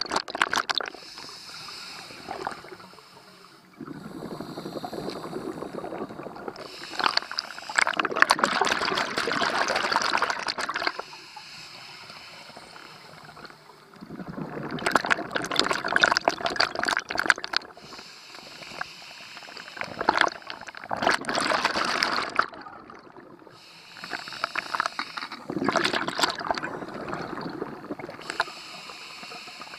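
Scuba diver breathing through a regulator underwater. Loud bubbling rushes of exhaled air recur every few seconds, with quieter stretches in between.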